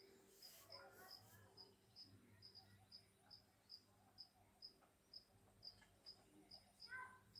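Faint cricket chirping: short high chirps at one pitch repeating steadily, about two to three a second. A brief short call near the end.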